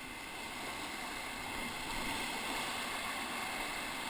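Whitewater river rapids rushing steadily, growing slightly louder about two seconds in.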